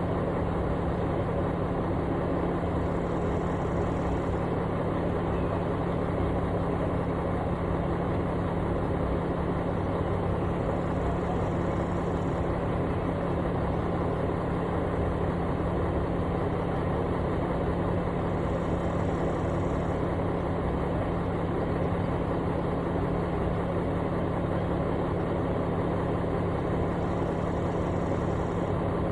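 Engine of a piece of construction equipment running steadily at idle, an even, unchanging hum.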